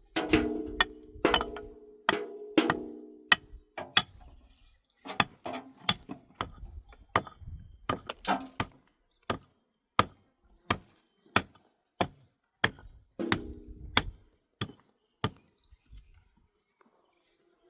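Repeated hammer blows, roughly one to two a second, that stop about a second and a half before the end. The loudest blows in the first few seconds and again later give a short ringing metallic tone.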